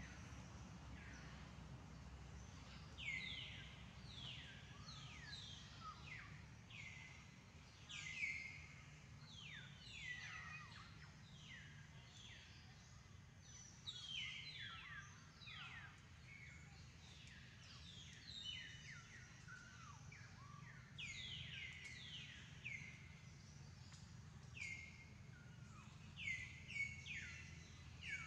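Faint bird chirping: many short, quick descending whistled calls, some overlapping, over a steady low background rumble.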